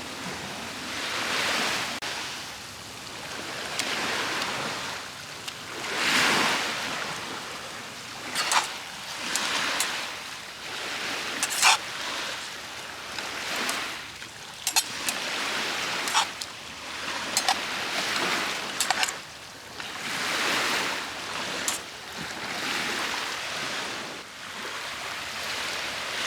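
Small sea waves washing onto the shore, the wash swelling and ebbing every two to three seconds. A scattering of sharp pops and crackles comes through in the middle stretch.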